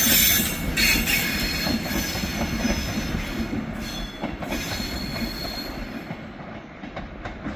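Class 390 Pendolino electric train pulling away, its wheels squealing in several high steady tones over a rolling rumble, the whole sound fading as it draws away.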